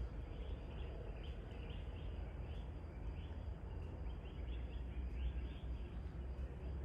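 Birds calling: many short, repeated chirps throughout, over a steady low rumble.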